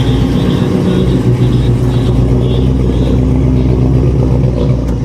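A car engine running steadily with a low, even rumble.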